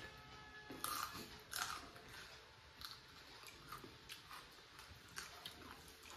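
Close-up chewing and crunching of a bite of raw green chili, in irregular crunches. The loudest come about a second in and again around a second and a half in.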